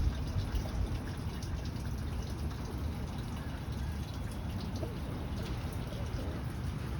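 Rain dripping and trickling, scattered small drips over a steady low rumble.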